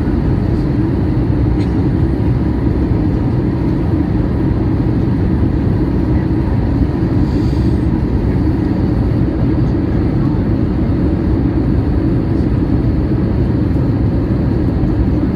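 Steady cabin noise inside a Boeing 737-800 on descent: a constant rush of airflow and the CFM56 turbofans, loudest in the low range and unchanging throughout.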